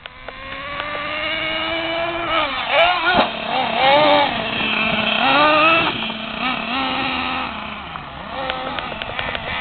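RC monster truck's motor running under throttle: its pitch climbs over the first couple of seconds, then rises and falls in several quick swoops as the throttle is worked, settling lower near the end.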